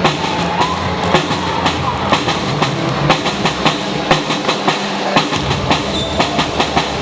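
Rapid, uneven sharp knocks or claps, about three a second, over a steady low hum in a large hall.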